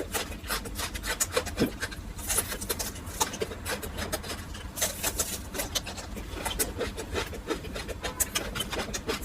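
Close-miked eating sounds: crunching and chewing, a dense run of small crackles and clicks.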